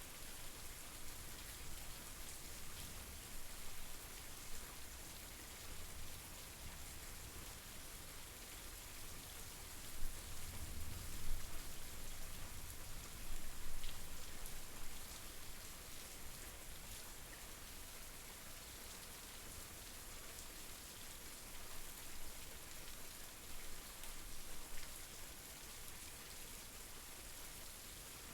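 Steady rain falling, an even hiss of many drops. There are a few brief louder low swells about ten and fourteen seconds in.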